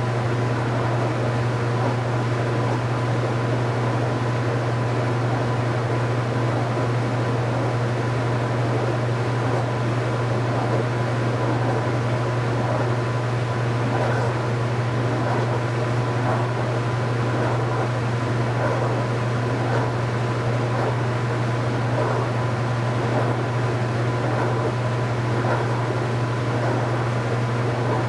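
2015 Speed Queen 8 Series top-load washing machine running with a steady, even motor hum.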